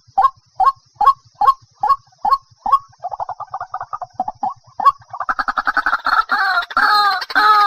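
White-breasted waterhen calling: a regular series of short notes, about two and a half a second, runs into a fast rattle about three seconds in, then gives way to loud, harsh, repeated croaking calls from about five seconds in.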